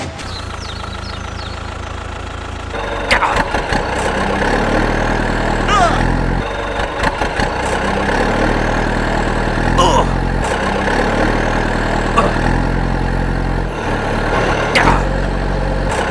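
An engine running at idle. It gets louder and heavier about three seconds in, with short high chirps every two to three seconds.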